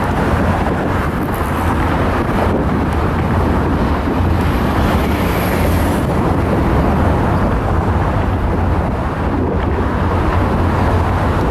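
A train passing, a steady loud rumble with wind buffeting the microphone.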